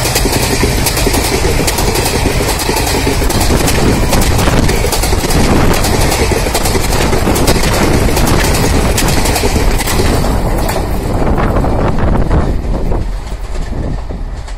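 Passenger train's coaches passing close by at speed: a loud wheel-on-rail rumble packed with rapid clicking from the wheels. It fades quickly about thirteen seconds in as the last coach goes by.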